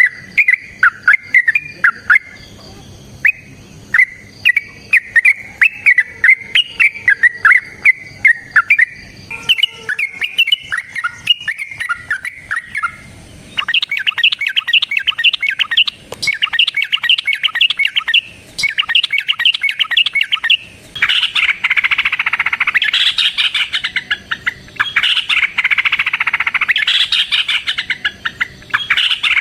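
Yellow-vented bulbuls calling in long, rapid chattering runs of notes. About halfway through the chatter turns denser and higher, becoming an almost unbroken babble in the last third.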